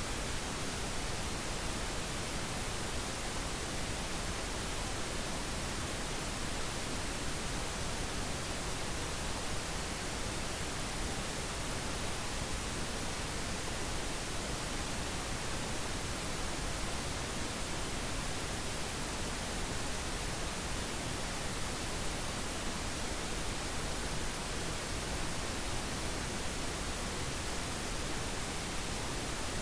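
Steady pink noise: an even, unchanging hiss spread across the whole pitch range.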